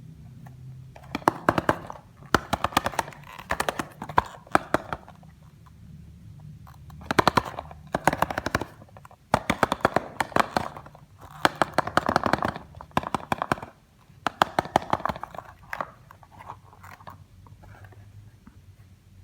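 Plastic packaging and toy pieces being handled during unboxing: bursts of rapid crackling and clicking, with short pauses between them.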